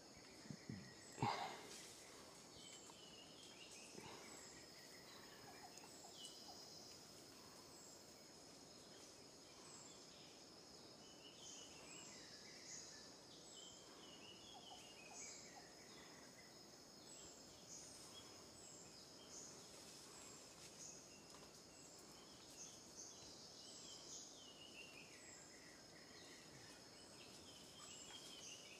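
Faint rainforest ambience: a steady high-pitched insect drone with bird calls, many short falling notes repeating throughout. A brief knock about a second in.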